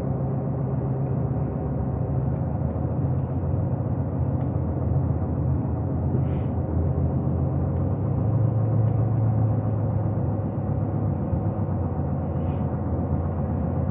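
Steady engine hum and tyre noise of a vehicle being driven, heard from inside the cab, with two brief faint ticks about six and twelve seconds in.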